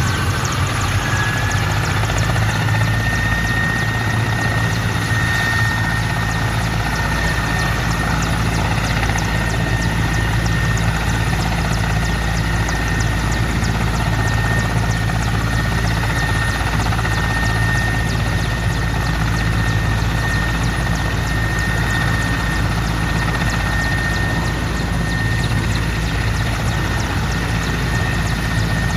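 Helicopter running close by: a turbine whine rises over the first couple of seconds and then holds steady over a low, constant rotor drone, as the machine winds up for takeoff.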